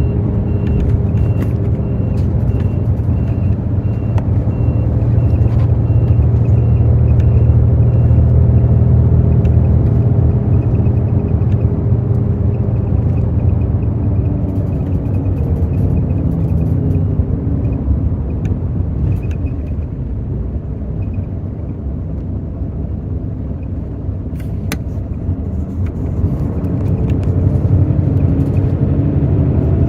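Hino J08E-VD inline-six diesel of a Hino intercity bus running under way, heard from inside the bus with a deep, steady rumble. The engine note builds over the first several seconds, eases off in the middle and picks up again near the end.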